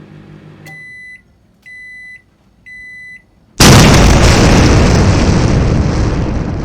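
Three short electronic beeps like a microwave oven's end-of-cycle signal, about a second apart, then a sudden loud explosion that fades away slowly over the next few seconds.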